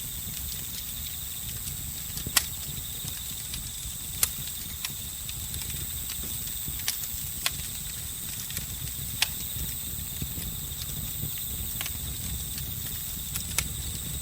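Campfire crackling, with sharp pops at irregular intervals over a low steady rustle of burning wood. Behind it, crickets and other insects trill continuously in a steady high-pitched chorus.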